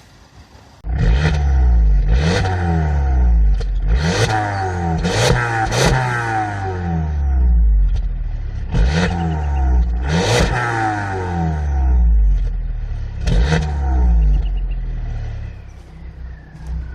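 2014 Volkswagen Jetta GLI's turbocharged 2.0-litre four-cylinder engine and exhaust being free-revved several times, the pitch climbing and falling with each blip, then settling back toward idle near the end.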